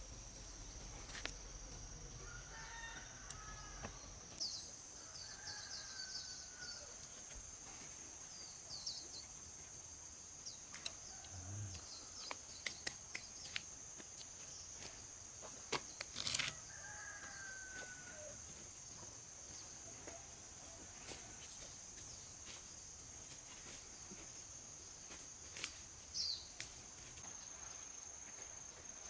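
Steady high-pitched drone of crickets, with scattered short bird or fowl calls and a few sharp clicks over it.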